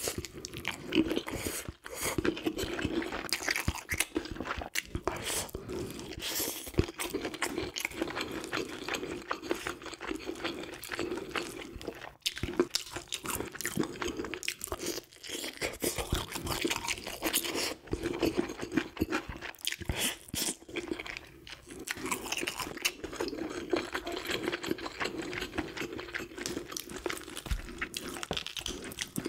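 Close-miked chewing of grilled fish: a steady run of small, sharp crunches and crackles from the mouth.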